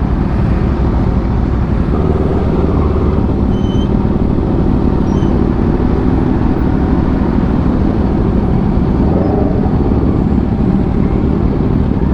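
Kawasaki Ninja 650 parallel-twin engine running steadily under the rider, with wind rush on the microphone.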